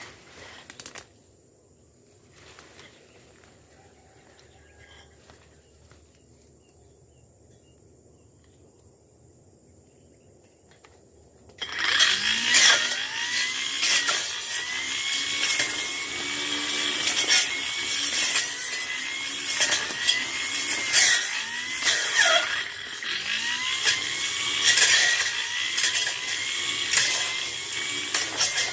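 Faint quiet for the first half, then, suddenly, a brush cutter's engine comes in loud. It revs up and down over and over, about once a second, with many sharp clicks as the spinning blade hits brush.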